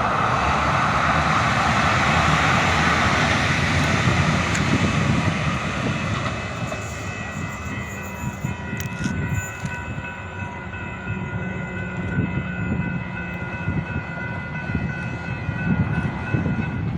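Steady vehicle travel noise: a continuous rumble with several high, steady whining tones held together from about six seconds in. It cuts off abruptly at the end.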